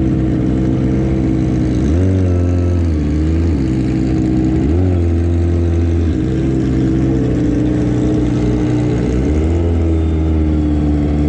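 Kawasaki ZX-25R inline-four with an aftermarket racing exhaust running at low revs, with three short throttle blips that briefly raise the pitch: about two seconds in, near five seconds, and near nine seconds.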